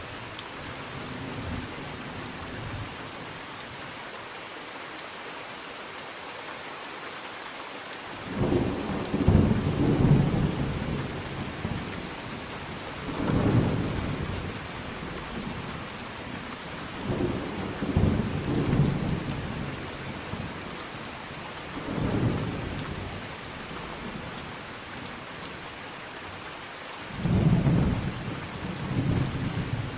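Thunderstorm: steady rain hissing, with low thunder rolling in about five separate rumbles, the loudest about a third of the way in and again near the end.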